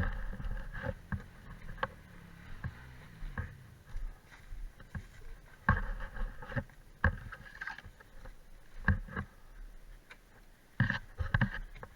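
Quad bike (ATV) engine running at low revs over rough ground, with irregular knocks and clunks about once a second.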